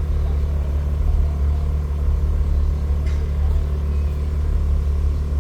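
A car engine running steadily at low revs: an even, deep rumble that holds without rising or falling.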